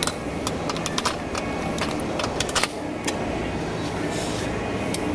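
Sharp, irregular plastic clicks and small rattles as push clips are pried out of a plastic truck bumper, over a steady low shop hum.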